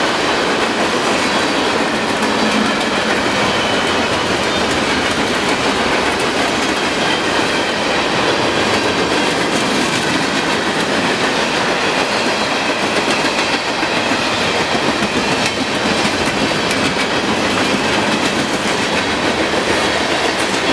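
CSX freight train's cars rolling past at a steady pace: continuous loud wheel-on-rail noise with scattered light clicks and no break.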